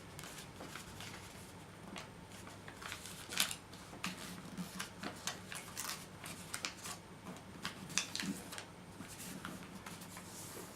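A sheet of origami paper being handled and folded: irregular crinkles, rustles and light taps as the paper is creased, over a faint low hum.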